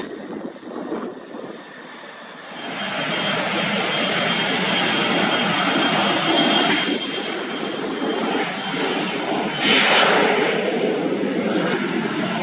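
Jet airliner engines passing close by: a loud, steady rush of engine noise that builds about two and a half seconds in and holds, with a thin high whine along the top of it.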